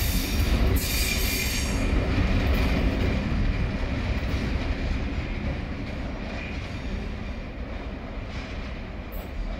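Freight wagons rolling on steel rails, a dense rumble with high screeching from the wheels in the first second or two, fading steadily as the end of the train draws away.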